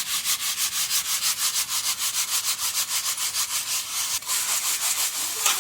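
Cracked urad dal being shaken and rubbed by hand in a sieve: a steady, rhythmic rasping at about five strokes a second. The broken dal falls through while the whole grains stay in the sieve.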